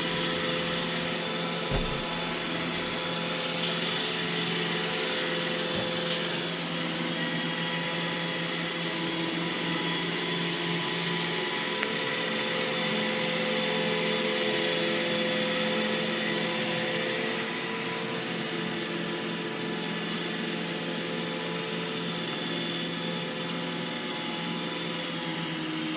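iRobot Roomba E6 robot vacuum running, its motor and brushes making a steady whir with a few steady tones, and a couple of light knocks in the first few seconds.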